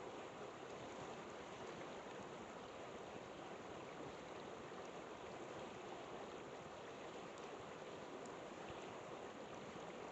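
Flowing river rushing steadily, with a few faint crackles from a campfire.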